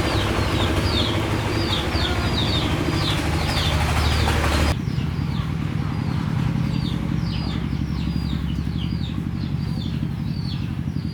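A motor runs steadily with a low hum, and a hiss over it cuts off suddenly just under five seconds in. Short high chirps, like bird calls, repeat throughout.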